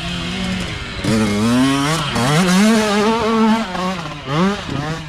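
Small youth dirt bike engines revving, their pitch rising and falling repeatedly as the throttle is worked, with more than one bike heard at once.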